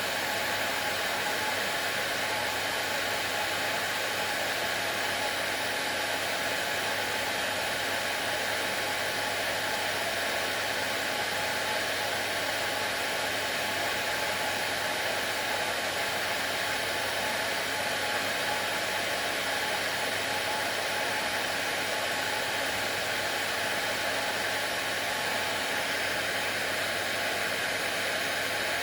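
Hair dryer running continuously, a steady even rush of blown air with a faint motor hum underneath, unchanging in level.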